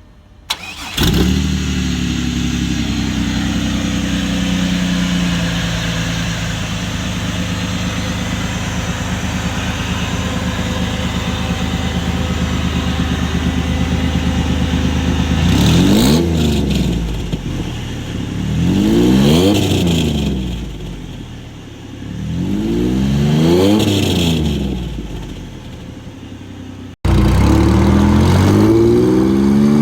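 Supercharged 3.8-liter V6 engine idling steadily, then revved three times, each rev rising and falling back to idle. Near the end, after a sudden cut, the engine is heard revving again.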